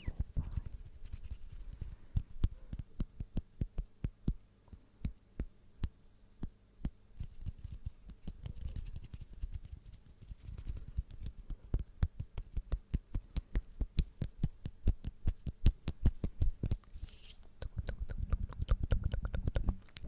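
Close-miked ASMR trigger sounds: a dense, irregular run of soft clicks and taps, coming faster in the second half.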